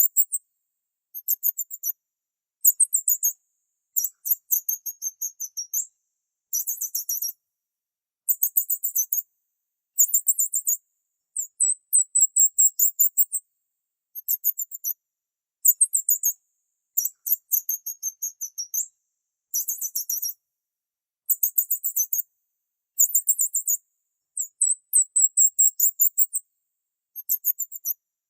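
High-pitched bird chirping in quick trilled bursts of about a second each, repeated again and again with short silent gaps.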